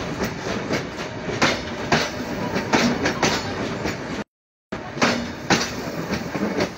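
Passenger train carriages rolling past, their wheels clacking repeatedly over the rail joints over a steady rumble. The sound cuts out briefly a little over four seconds in.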